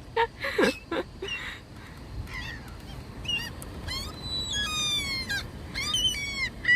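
Gulls calling: repeated crying calls from several birds, sparse at first, then overlapping more and more from about halfway through.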